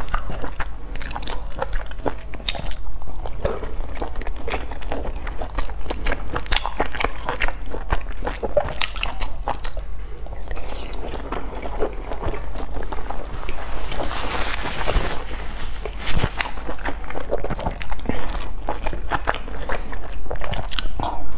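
Close-up mouth sounds of eating soft steamed buns dipped in chili sauce: repeated biting and wet, smacking chewing with many small irregular clicks.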